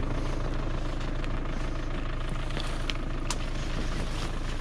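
Land Rover Freelander engine idling with a steady low rumble, with a few sharp clicks over it.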